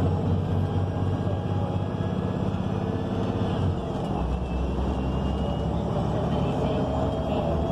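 Inside a 2019 ENC Axess bus under way: the Cummins Westport L9N natural-gas engine and Voith automatic transmission running steadily over road noise, with faint whines rising and falling. The engine note changes about four seconds in.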